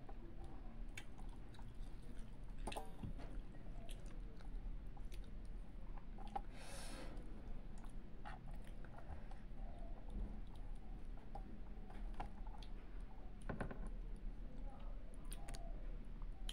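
A person chewing a mouthful of rice, dal and fish up close, with scattered small wet clicks and a short breathy hiss about seven seconds in.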